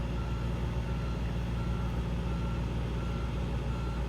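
A vehicle's reversing alarm beeping at a steady pace, about one beep every 0.7 seconds, over a constant low engine-like rumble.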